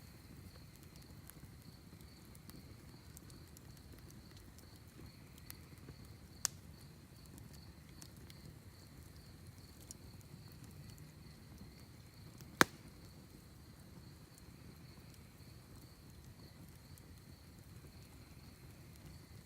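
Wood fire in a fire pit crackling under a steady chorus of crickets, with scattered small crackles and two sharp pops, the second and much louder one about two-thirds of the way through.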